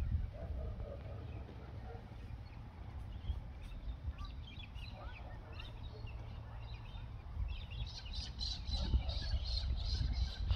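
Small birds chirping, a few scattered calls at first and many more from about three-quarters of the way in, over a steady low rumble.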